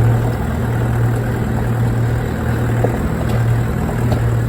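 4x4's engine running at a steady low drone while driving slowly on a rough off-road track, with a few faint knocks.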